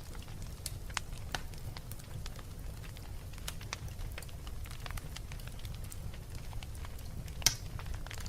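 Wood fire burning in a fireplace: a steady low rumble of the flames with scattered sharp crackles and pops, the loudest pop about seven and a half seconds in.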